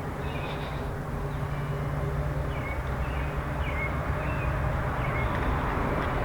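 Steady low rumble of outdoor background noise, with several short, slightly falling bird chirps scattered over it.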